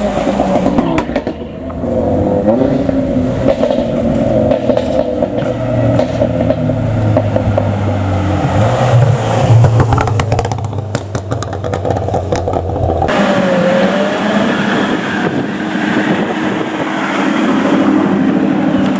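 Modified cars' engines and exhausts running and revving as they drive past one after another. A run of sharp cracks comes about halfway through. About two-thirds in one engine note cuts off and another car's engine takes over.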